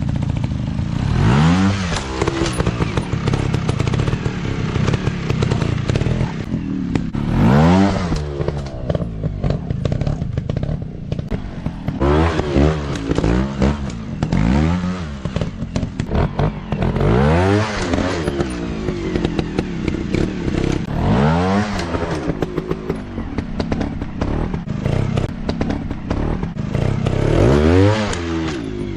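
Dirt bike engines revving in repeated throttle bursts, each one rising in pitch and then falling away, about every two to four seconds, over steady engine running, with some clattering.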